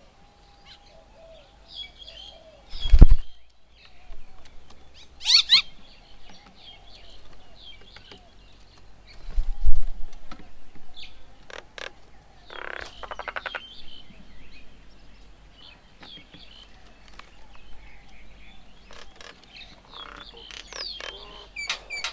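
Several birds at a garden bird table giving short chirps and calls, with a harsher buzzy call about halfway through. Two loud low thumps, about three seconds and ten seconds in, stand out above the calls.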